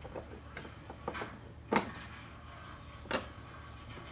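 Toy ice cream scoop knocking against hard toy ice cream pieces: about four sharp clacks, the loudest a little under two seconds in.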